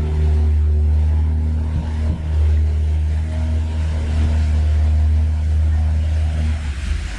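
An engine running steadily, a loud low hum with a fixed pitch that shifts near the end.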